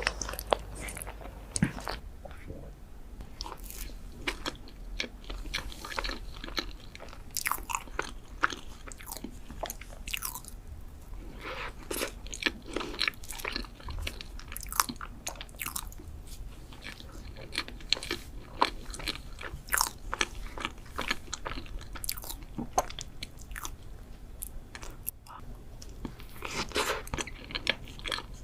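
Close-miked eating: a person biting and chewing food, a steady run of small crunchy and wet mouth clicks, busiest near the middle and again near the end.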